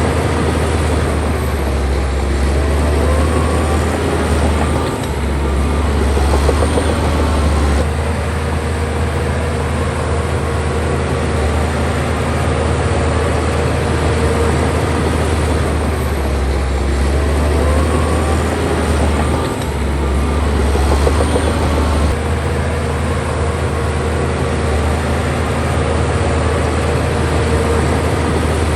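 Bulldozer's heavy diesel engine running steadily under load, its sound shifting several times as the machine works.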